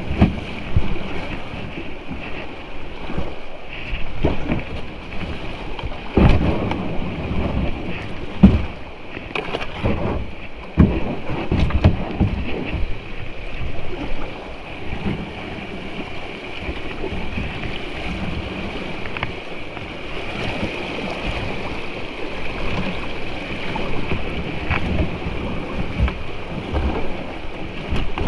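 Kayak running creek rapids: a steady rush of moving water with irregular knocks and splashes, the loudest about six and eight and a half seconds in, and wind buffeting the microphone.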